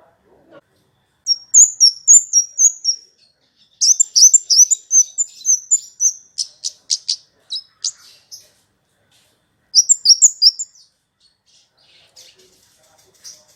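Kemade, a small Indonesian songbird, singing in three bursts of rapid, high-pitched chirps. The first burst alternates two notes up and down, the second is a longer run of sharp notes that ends in quick ticks, and the third is short, about ten seconds in.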